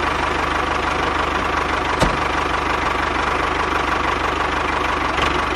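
Engine idling steadily with a fast, even low rhythm, and a single sharp click about two seconds in.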